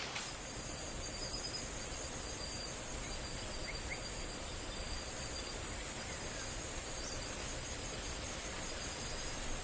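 Forest ambience: a steady, high insect drone of crickets or cicadas over a soft hiss, with a couple of short, faint bird whistles about four seconds in.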